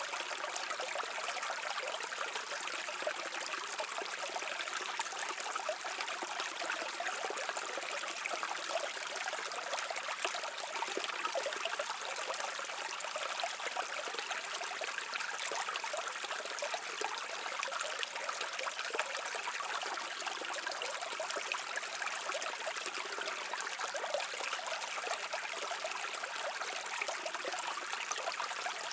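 A stream of water flowing and trickling over rocks, a steady babbling rush without breaks.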